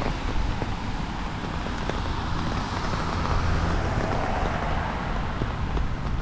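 Steady rain on a city street with traffic passing on the wet road; the tyre hiss swells in the middle and there is a low rumble of wind on the microphone.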